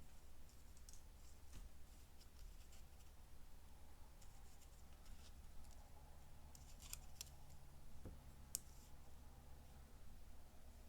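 Scissors snipping paper: a few faint, short snips in small groups over a low steady hum.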